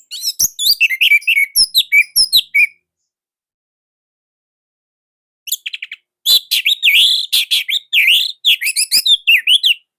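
Orange-headed thrush (anis merah) singing a tight, loud song of rapid, varied notes, in two bursts: one of nearly three seconds, then, after a pause of about three seconds, a longer one of about four seconds.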